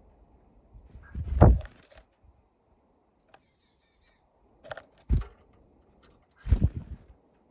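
Small birds landing and pecking on a window bird feeder: three clusters of knocks and thuds, the first the loudest, with a short high bird call a little after three seconds.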